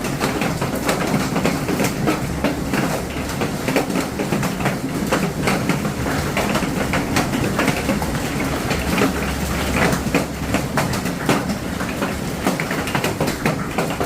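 Hail pelting hard surfaces: a dense, irregular clatter of many small impacts over a steady low din.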